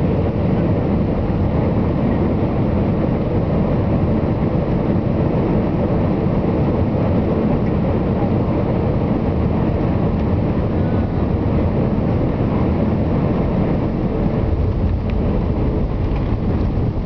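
Steady roar of an Airbus A320's jet engine and rushing air, heard from inside the passenger cabin during landing.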